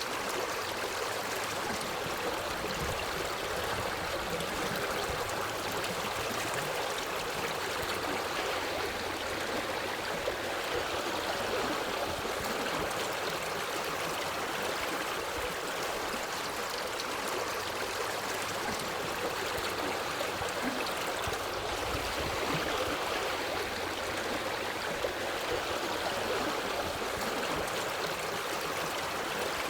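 A forest stream flowing steadily: an even, unbroken rush of running water.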